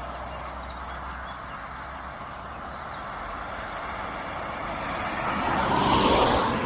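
Road vehicles passing by, their tyre and engine noise a steady hiss. One is fading away at the start, and another swells to its loudest near the end and begins to fade.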